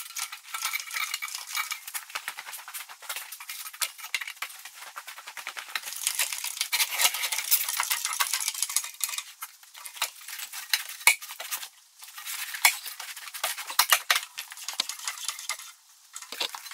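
Steel parts clinking, scraping and crackling in a dense, rapid run, with a couple of brief pauses near the end.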